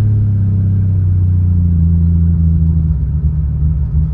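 Toyota Supra engine running under way while driving, heard from inside the car. The engine note drops in steps partway through and again about three seconds in.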